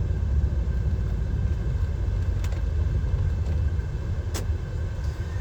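DAF XF 530 lorry's diesel engine idling, heard as a steady low rumble inside the cab, with a sharp click about four seconds in.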